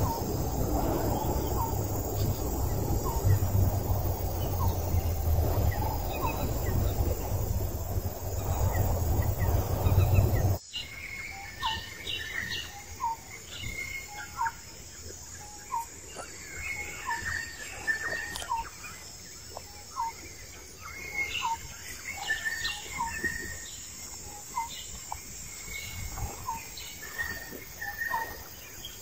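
A steady low rushing noise with a few faint chirps through it, cutting off abruptly about ten seconds in; after that, birds chirping in forest, many short repeated calls.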